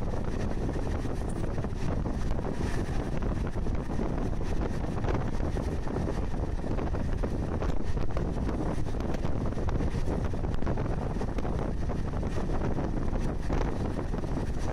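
Steady rumble of a moving passenger train, heard from an open window, with wind buffeting the microphone.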